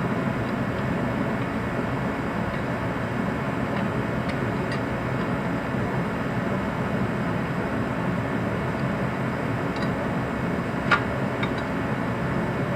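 Steady background noise with a few light clicks from metal parts and hand tools being handled at the engine bay, and one sharper click about eleven seconds in.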